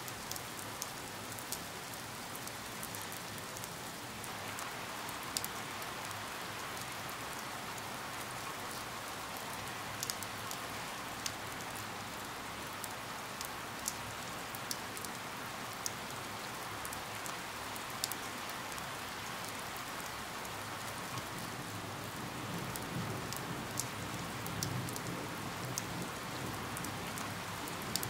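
Steady rain falling, with single drops striking close by every second or so as sharp ticks. The downpour grows a little louder about four seconds in.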